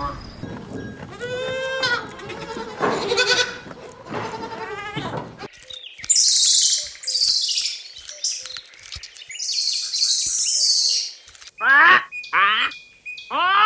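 A run of animal calls. First come wavering, bleat-like calls for about five seconds. Then, from about six seconds in, a red squirrel gives high, buzzy bursts of chatter, and near the end a red lory squawks loudly three times.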